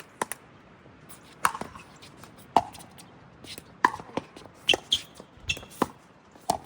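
Pickleball paddles hitting a plastic pickleball in a rally: a run of sharp hits roughly a second apart, each with a short ringing pock, with fainter clicks of ball bounces and other hits in between.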